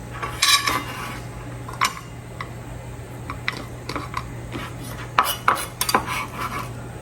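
Kitchen utensils clinking and tapping: a knife and a plate knocking against a cutting board and each other in short, scattered clicks, with a busier cluster near the start and another about five seconds in, as chopped food is moved onto a plate.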